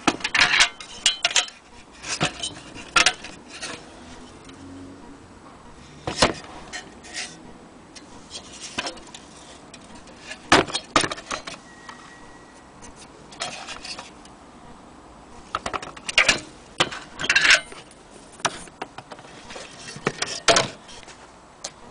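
Irregular metallic clinks, taps and rattles from an old metal lantern being handled and turned over, in clusters of sharp clicks with short pauses between.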